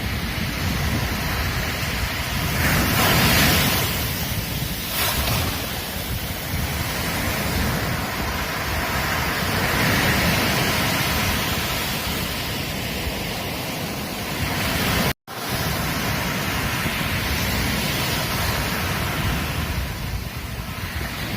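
Ocean surf breaking and washing onto a beach, a steady rush that swells louder with each wave every several seconds. About two-thirds of the way through the sound cuts out for a split second.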